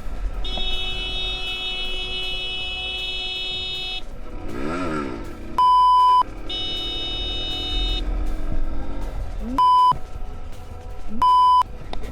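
A vehicle horn held down in a long blast of about three and a half seconds, then again for about a second and a half, over road rumble. Three loud, pure censor bleeps cut in between and after the horn blasts.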